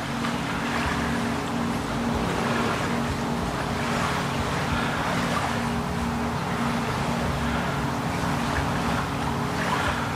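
A steady engine drone with a low pulsing hum, under a rushing noise that swells about every second and a half.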